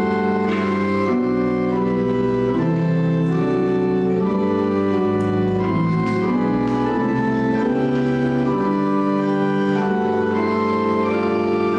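Organ playing offertory music in slow, sustained chords, the notes changing about once a second.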